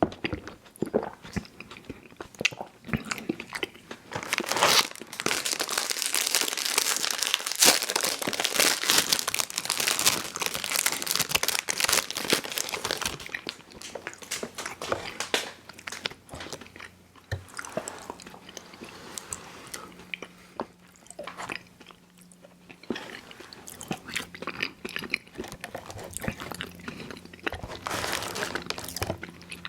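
Close-miked chewing of chewy fruit candy: wet smacking and sticky clicking of the mouth and teeth. It is dense and loudest from about four to thirteen seconds in, quieter after that, with another loud burst near the end.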